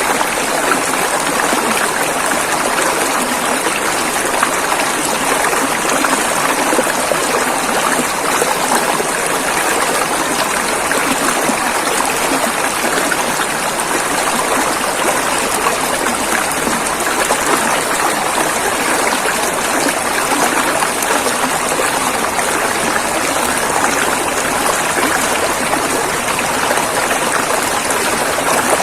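River water rushing and flowing over rocks, a steady, even noise.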